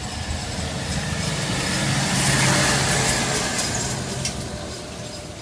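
A motor vehicle passing by: its engine and tyre noise swell to a peak about halfway through, then fade away.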